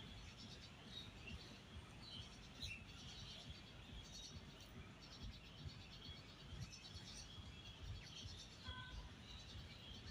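Faint outdoor ambience: small birds chirping repeatedly over a low, unsteady rumble.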